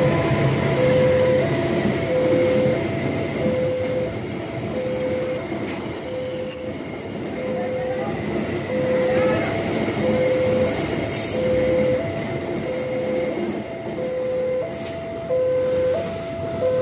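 A freight train of fuel tank wagons rumbles and rattles steadily past, while a railway level-crossing alarm repeats two alternating electronic tones, each held about two-thirds of a second.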